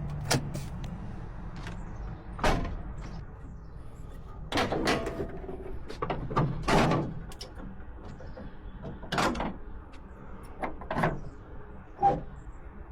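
A string of irregular clunks and clicks, about ten in all, like a door, latch or controls being worked inside the motorhome's cab, over a steady low hum.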